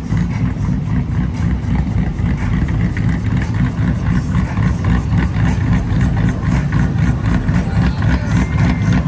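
Large car engine idling steadily with a loud low rumble.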